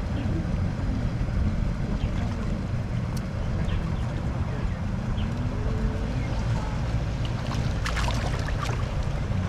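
Steady low rumble of outdoor wind and water noise on the microphone, with a short cluster of sharp crackling clicks about eight seconds in.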